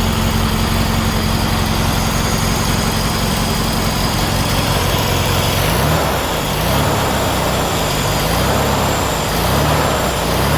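Engine running after its loose flywheel was refastened: idling steadily at first, then revved up and down repeatedly from about six seconds in.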